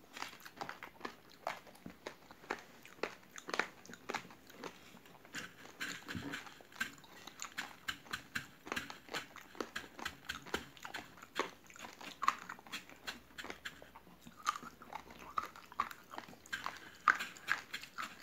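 Close-up chewing of raw uncooked rice grains with chewy jelly: a dense, irregular run of small crisp crunches and wet mouth clicks.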